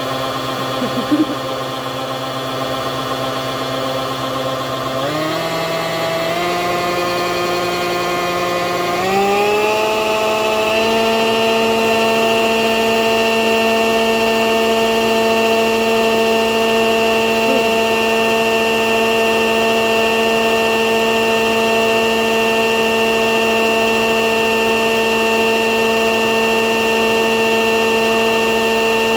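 Electric hand mixer with beaters running in a thick cream cheese and peanut butter filling. Its pitch steps up several times in the first ten seconds or so as the speed is raised, then holds steady at high speed.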